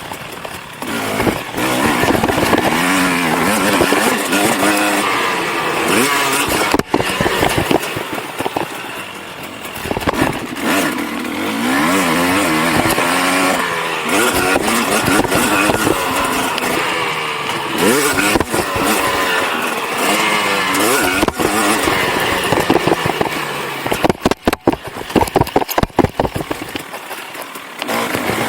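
KTM SX 250 two-stroke motocross engine, bored out to 300 cc, revving hard and dropping back again and again, its pitch rising and falling with the throttle. Sharp knocks and rattles cut in at times, from the camera sitting loose in its case.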